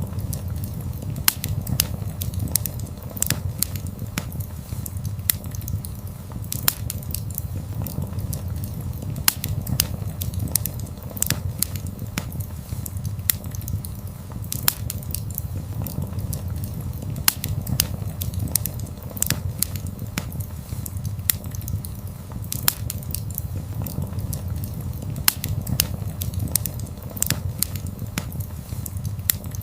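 Wood fire burning: a steady low rush from the flames with frequent sharp crackles and pops from the burning wood.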